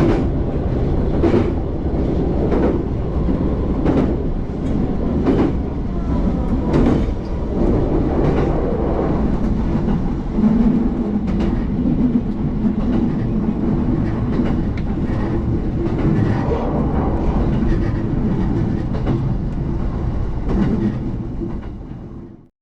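Train running along the track: a steady rumble with wheels clicking over rail joints about every second and a half, cutting off abruptly near the end.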